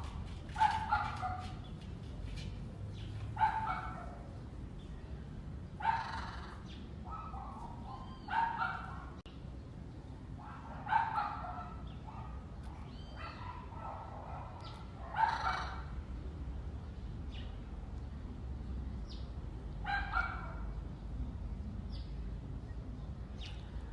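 Parrot calling: about eight short, loud calls a couple of seconds apart, with a longer pause near the end, over a steady low background rumble.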